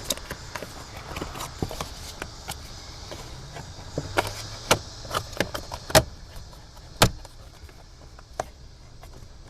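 Plastic cabin-filter access cover of a 2003 Nissan Altima being worked back into place by hand: irregular clicks and taps, with two loudest snaps about six and seven seconds in.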